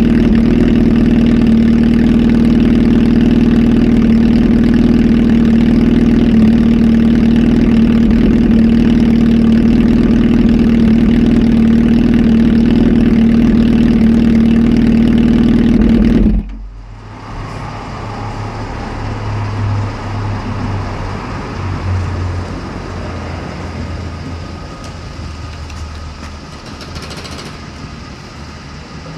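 Kawasaki Z H2 SE's supercharged inline-four, flash tuned and on a full aftermarket exhaust, running loud and steady at constant revs. About sixteen seconds in the engine sound cuts off suddenly, leaving a much quieter, uneven low rumble.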